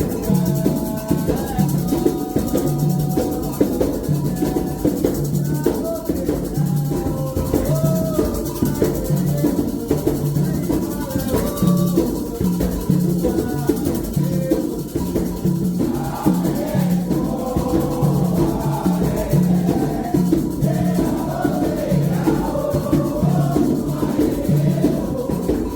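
Candomblé ritual music: atabaque hand drums play a steady rhythm with a shaken rattle, while voices sing a chant over them.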